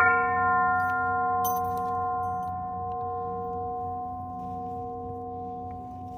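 A bell struck once, then ringing on with several steady tones that fade only slowly. It has the long ring of a singing-bowl type bell. A few faint high clicks come about one and a half seconds in.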